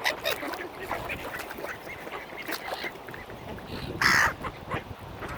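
Mallard ducks quacking in a busy flock, many short overlapping calls, with one louder harsh burst about four seconds in.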